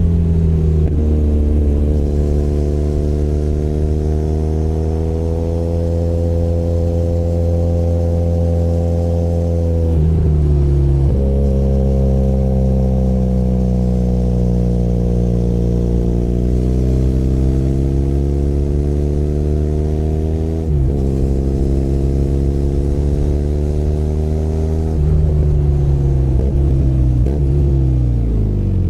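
Benelli Leoncino 500 Trail's parallel-twin engine pulling through the gears on the road: the engine note climbs slowly and drops sharply at an upshift about ten seconds in and again about twenty-one seconds in, then falls away near the end as the bike slows.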